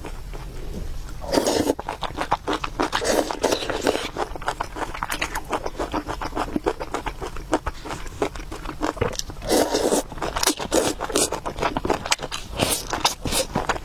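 Close-miked eating of noodle soup: chewing, smacking and slurping, with many quick wet clicks and a few louder bursts.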